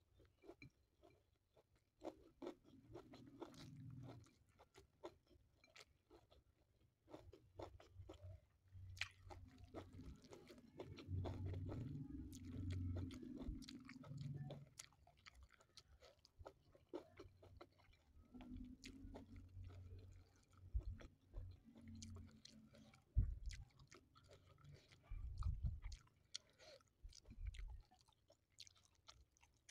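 Quiet, close-up chewing of a mouthful of rice with salted fish and sambal, with soft crunching. It comes in several spells of a few seconds each, with scattered small clicks in between.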